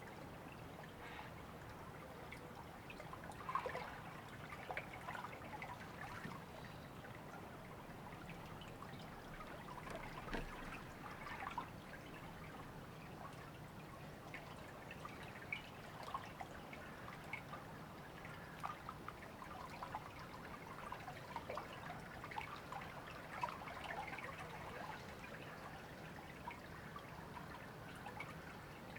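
Faint, steady trickling and babbling of a small river, with a constant restless bubbling over the water's hiss.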